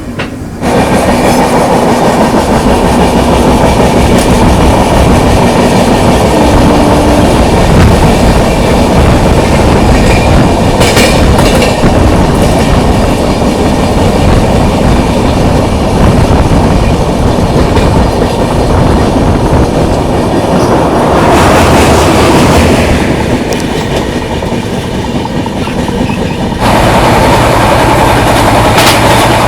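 Passenger train running on the rails, with loud, steady wheel clatter. A little past two-thirds of the way the sound briefly swells, and near the end it changes, a low steady hum coming up under the rumble.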